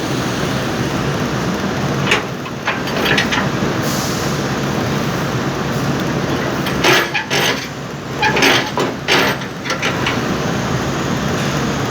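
Jeep Wrangler engine running through its newly made exhaust, idling steadily with a low drone. Louder, rougher bursts come twice, about two seconds in and again about seven seconds in.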